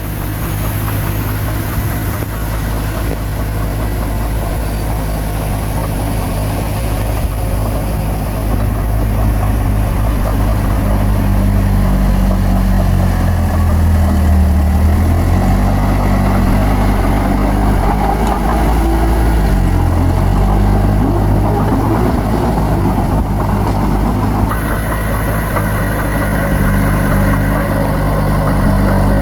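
Bulldozer's diesel engine running steadily, its engine speed dipping and rising for a stretch in the middle as it works.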